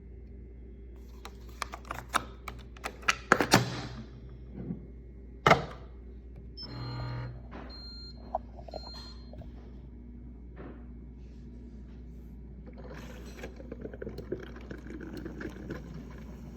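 Handling of a single-serve pod coffee maker: a quick run of plastic clicks and knocks with a loud clunk about five seconds in, then a short low hum about seven seconds in and a soft hiss near the end.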